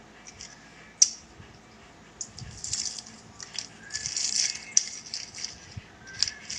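Light rustling and rattling, with a sharp click about a second in and another near five seconds.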